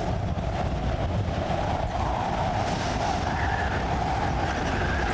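Storm wind blowing hard and steadily, with a deep rumble underneath.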